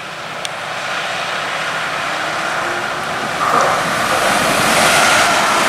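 A TER AGC regional multiple unit approaching, its running noise growing steadily louder; about three and a half seconds in, a steady high tone joins it and holds.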